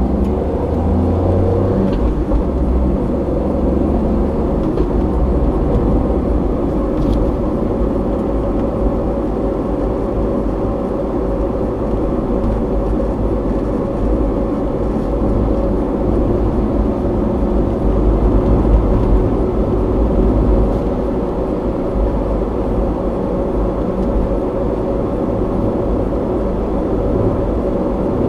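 A car driving steadily along a road, its engine and tyre rumble picked up by a dashboard camera.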